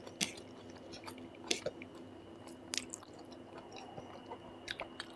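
A person chewing mouthfuls of basmati rice and curry close to the microphone, with scattered short wet mouth clicks and smacks. A faint steady hum runs underneath.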